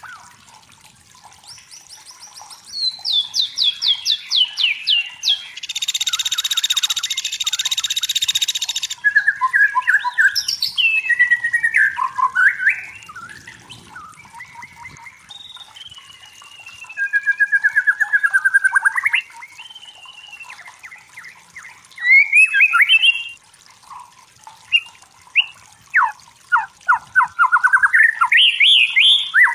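White-rumped shama (murai batu) song: a long run of varied whistled phrases, quick repeated notes and rising trills. About six seconds in there is a harsh, buzzing chatter lasting some three seconds.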